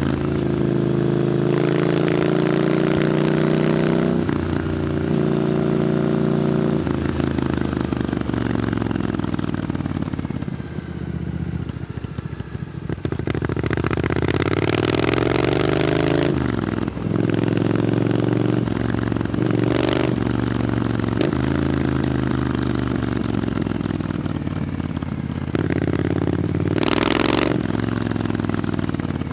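Triumph Scrambler 900's parallel-twin engine through an Arrow exhaust, heard on the move. It pulls up through the gears with quick shifts in the first few seconds and eases off with falling revs around the middle. It then builds revs again, with short breaks for gear changes near the end.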